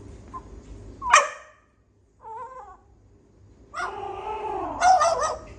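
A dog yelping once about a second in, then whimpering and yipping in the last couple of seconds.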